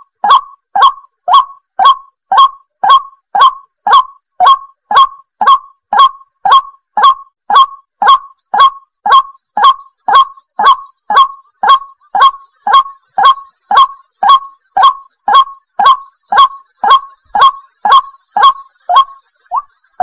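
White-breasted waterhen (chim quốc) calling over and over: short, loud, falling notes repeated steadily about twice a second.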